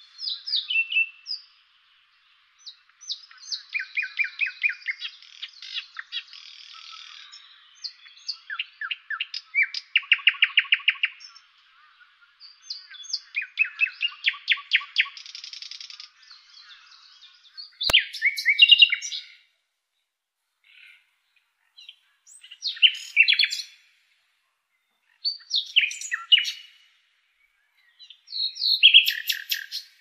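Songbirds singing: varied whistled phrases and fast trills, dense in the first half and in shorter bursts with pauses later. A single sharp click sounds about 18 seconds in.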